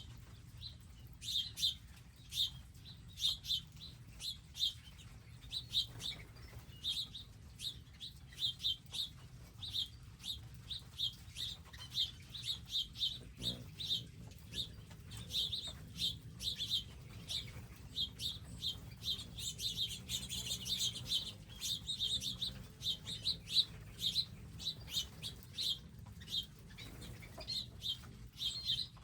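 Small wild birds chirping, many short high chirps in quick succession throughout, over a faint steady low hum.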